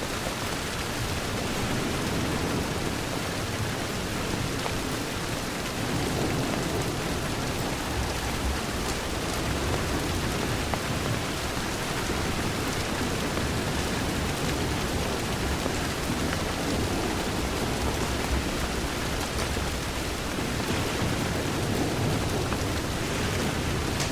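Steady heavy rain falling against a window, an even hiss under a low rumble that swells and eases every few seconds.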